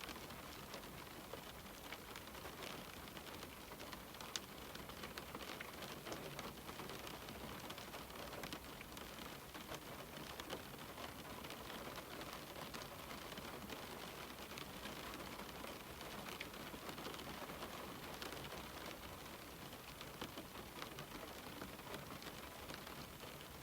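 Steady rain on a window pane: an even hiss dotted with many small drop ticks, one a little louder about four seconds in.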